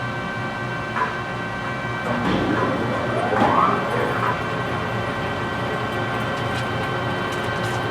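Lathe running steadily while turning a large pot-bearing part, a constant hum with several fixed tones. Between about two and four seconds in, a brief rising whine.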